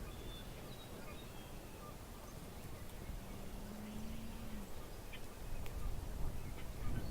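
Outdoor nature ambience in early spring: scattered short bird chirps over a low rumbling background, with a brief steady low hum about three seconds in.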